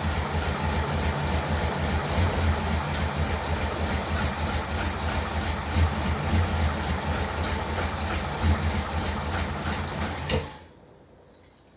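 1957 Ford Thunderbird V8 idling on a two-barrel carburettor with an uneven low pulse, then dying suddenly near the end. It stalls because the idle mixture screw on one side has been turned all the way in.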